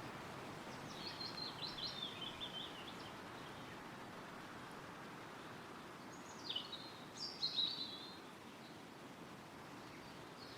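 Wind rustling through woodland trees, with a small songbird singing two short phrases of quick, high notes: one about a second in and another around seven seconds in.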